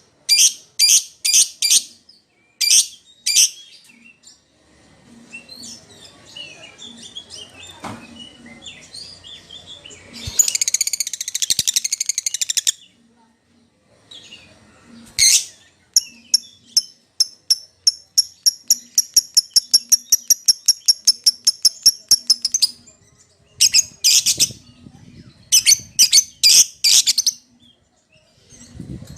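Lovebird calling: shrill chirps in quick groups, a harsh chattering burst about ten seconds in, and a long run of rapid, evenly repeated chirps midway. It is a lure call meant to provoke a reply from another lovebird.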